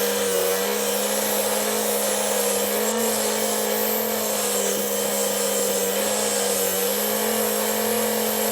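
Electric power tool running continuously while working the steel throttle-pedal stick, its motor pitch dipping slightly now and then under load, over a steady hiss.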